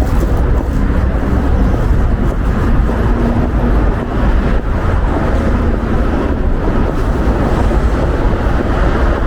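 Wind buffeting the camera's microphone: a loud, steady rumbling noise, heaviest in the low end.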